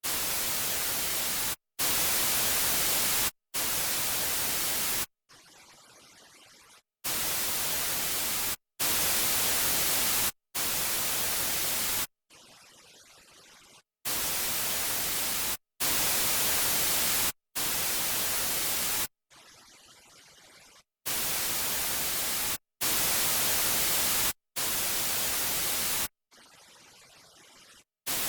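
Dolby Surround speaker-calibration test: bursts of pink noise, each about a second and a half long with a short silence between, stepping in turn through the left, center, right and surround channels. Every fourth burst, the surround channel, is much quieter and duller than the others.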